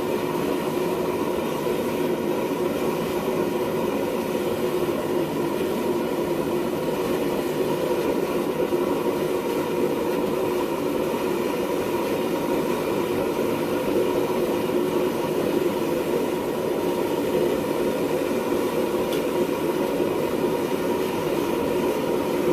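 Gas burners of a homemade forge burning at a low 5 psi gas pressure: a steady rushing roar with a faint even hum.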